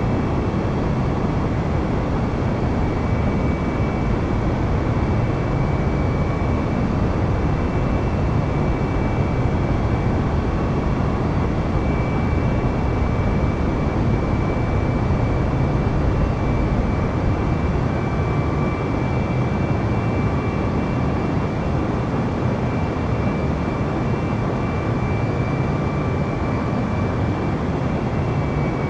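Jet airliner engines and airflow heard from inside the aircraft during takeoff: a loud, steady rush of noise with a thin, high whine held at a constant pitch.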